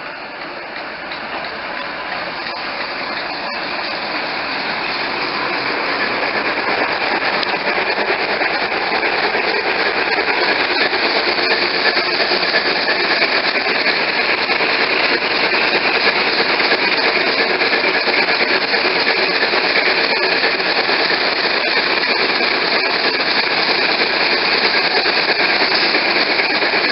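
Diesel train running with a continuous rattling clatter, growing louder over the first ten seconds or so and then holding steady.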